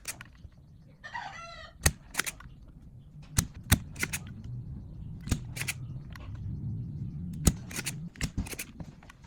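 Sharp clicks and knocks, about a dozen at irregular spacing, from hand work on an old mixing desk's parts, over a low rumble that swells a few seconds in. A short, pitched call like a chicken's comes about a second in.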